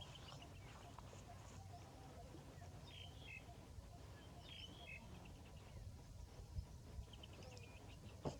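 Faint outdoor ambience with a low steady rumble and a few short bird chirps, twice in the middle and again near the end, plus a couple of soft knocks.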